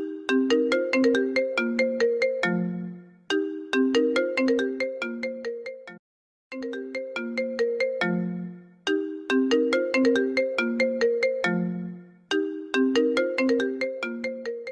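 Apple iPhone ringtone melody looping: quick, sharply struck notes in short repeating phrases, with a brief silent gap about six seconds in where the loop restarts.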